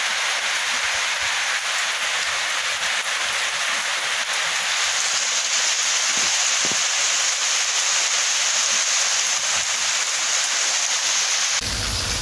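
Steady rain falling, an even hiss. Near the end it switches abruptly to rain with a low rumble underneath.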